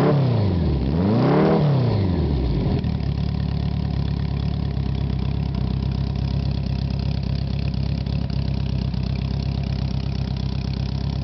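Honda Goldwing GL1100 flat-four engine through a 4-into-1 header exhaust, coming down from a throttle blip, blipped once more about a second and a half in, then settling into a steady idle for the rest.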